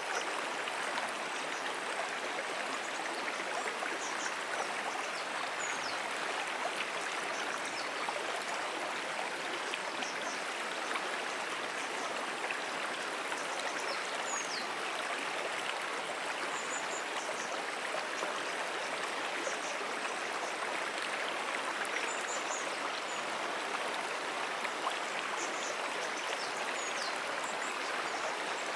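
Brook water flowing steadily, an even rushing and rippling. Faint, short high-pitched chirps come and go above it.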